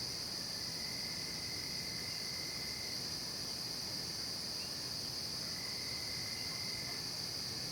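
Night insect chorus of crickets: a steady, unbroken high-pitched trill. A fainter, lower trill comes in twice, for about two seconds each time.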